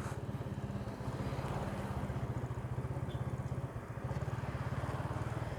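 Motorcycle engine running at low speed, a steady, evenly pulsing throb, as the bike rolls up to stop.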